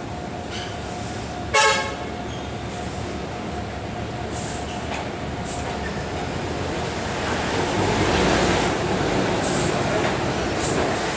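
A vehicle horn gives one short honk about one and a half seconds in, over steady road and engine noise that swells to its loudest around eight seconds in.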